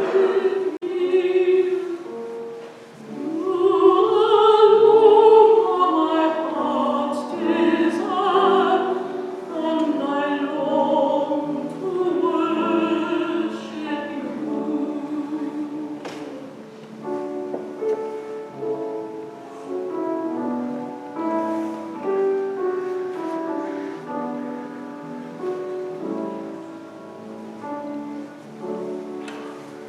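Sacred song in a classical style, sung with vibrato over instrumental accompaniment. The singing gives way to a gentler instrumental close that grows softer toward the end.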